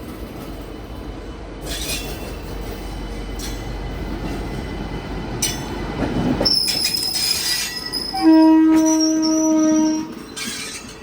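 Indian Railways passenger train rolling over a diamond crossing, with clatter from the wheels crossing the rail joints and a high flange squeal. About eight seconds in, a locomotive horn sounds one long, loud blast of about two seconds.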